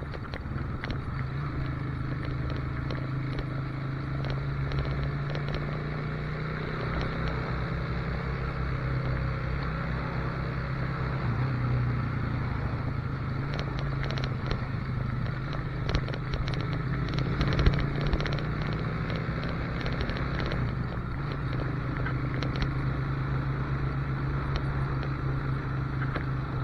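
Motorcycle engine running steadily while riding at road speed, its note holding nearly level, with wind rushing over the microphone.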